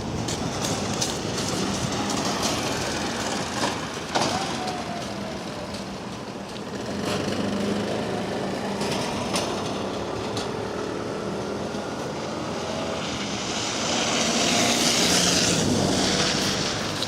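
Kōnan Railway Ōwani Line train running, with a steady low hum, scattered clicks and faint squeals, and a louder hiss building about 14 seconds in.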